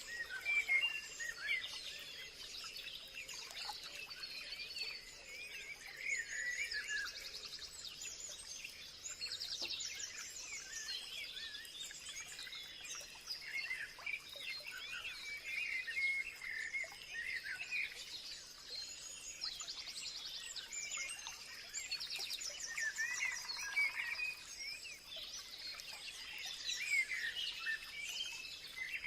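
Many birds chirping and singing at once, overlapping short calls and quick trills, over a steady high-pitched tone.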